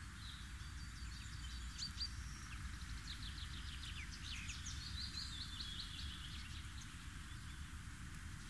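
Garden birds singing in short chirps and quick trills over a steady outdoor hiss and low rumble.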